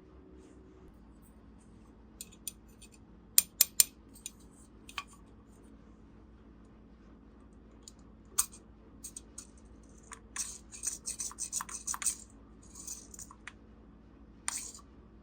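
Small plastic toy pieces being handled and set down: scattered sharp clicks and taps, three loud ones in quick succession, then a quick run of rattling clicks in the second half.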